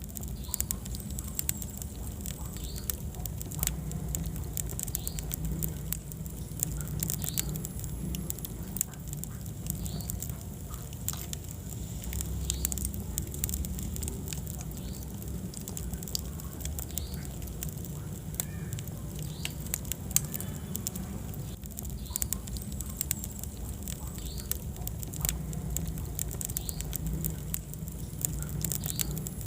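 Wood fire burning in a fireplace: a steady low rumble under frequent, irregular sharp crackles and pops.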